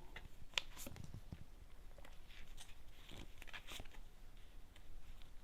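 Tarot cards being handled and turned over on a table: faint scattered clicks and rustles of card stock.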